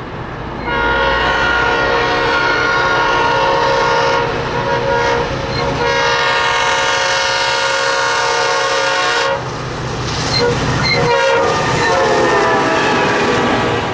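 Diesel train horn sounding one long blast of several seconds, then a second blast that drops in pitch near the end.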